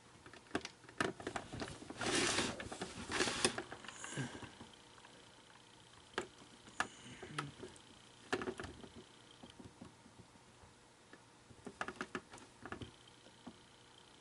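Repair handling noise: scattered clicks and taps with two short bursts of scraping about two and three seconds in, as tools and plastic parts are worked on an animated figure being taken apart to remove staples.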